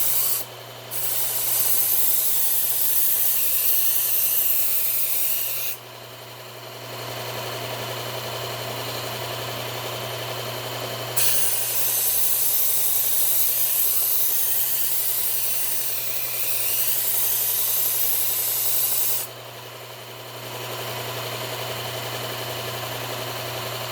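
Belt grinder running with a 120-grit Cubitron belt while a knife blade is drawn edge-trailing across it. The steady grinding hiss runs for about the first six seconds, stops, then picks up again about eleven seconds in for roughly eight more seconds. In the gaps only the motor's hum is heard.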